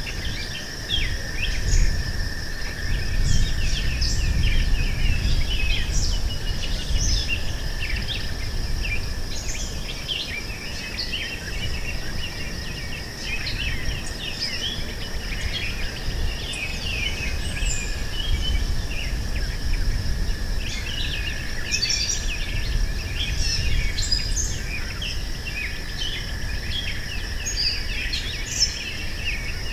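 Meadow ambience: many birds chirping and singing over a steady, high insect drone, with a low rumble of wind underneath.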